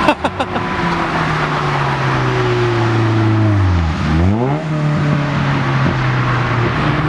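Car doing a burnout: its engine held at steady revs, dropping in pitch for a second or so about three seconds in, then quickly revving back up and holding, over a steady rushing noise. For a burnout it is quiet. A few sharp clicks come right at the start.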